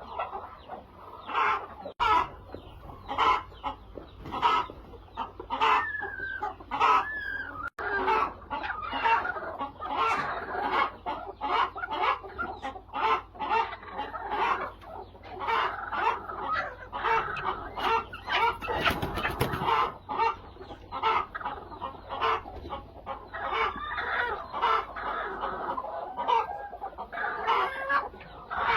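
Flock of laying hens clucking, with many short overlapping calls that keep up without a break.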